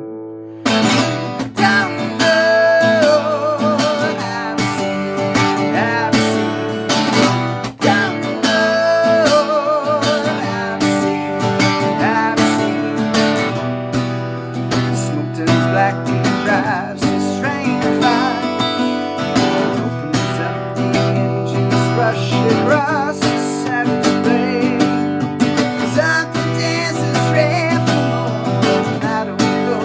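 Music: strummed acoustic guitar with a wavering melody line over it, coming back in after a brief break under a second in.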